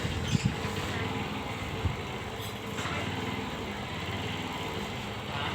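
A small engine running steadily, with a few short low knocks.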